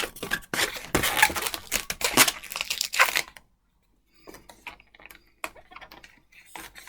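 Latex modelling balloon (260Q) being handled and twisted: rubbery rubbing, crinkling and squeaking with sharp clicks, busiest for about the first three seconds, then a brief pause and fainter handling.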